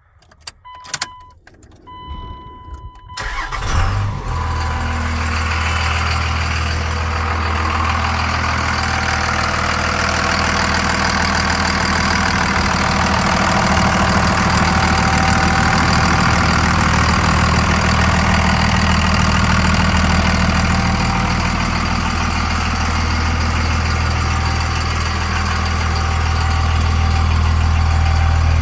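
A few short electronic chime tones, then the 5.9-litre Cummins inline-six turbo diesel of a 1999 Dodge Ram 3500 cranks and starts about four seconds in. It settles into a steady, even idle.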